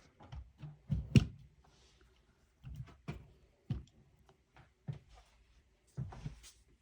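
Irregular light knocks and clicks of hand work, the loudest about a second in.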